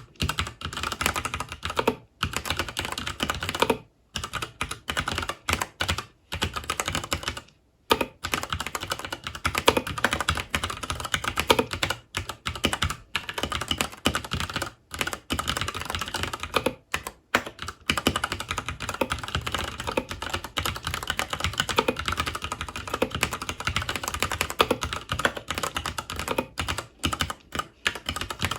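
Continuous fast typing on a FILCO Majestouch 2 Hakua tenkeyless mechanical keyboard with Cherry MX Brown switches. The keys clack in rapid runs, broken by a few short pauses.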